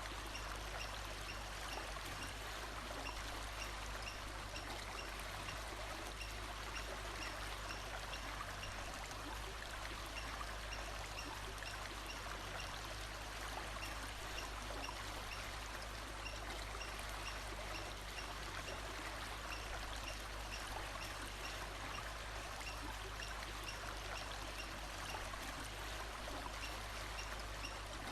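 Steady rush of running water, like a forest stream, with faint short high chirps repeating all through.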